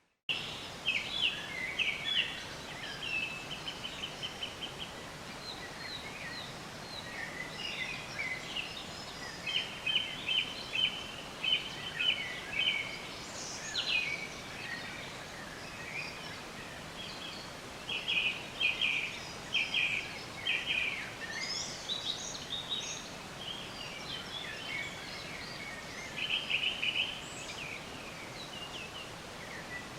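Several songbirds chirping and singing, with rapid trilled phrases of quick repeated notes every few seconds, over a steady background hiss.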